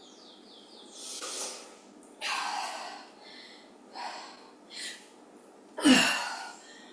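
A woman breathing hard from exertion mid-workout: a series of about five sharp, noisy breaths in and out, the loudest near the end.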